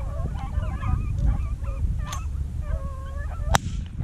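A pack of beagles baying while running a rabbit, many overlapping yelps and bawls. A sharp crack sounds once about three and a half seconds in.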